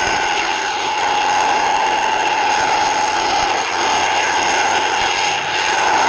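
Steady underwater machine drone: a constant pitched hum with an even hiss over it, without breaks or rhythm.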